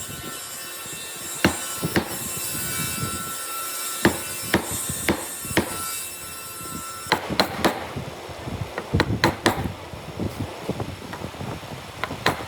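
Hammer strikes on wood during hand-cut dovetail joinery: single sharp knocks about a second apart at first, then a quicker run of lighter taps in the second half.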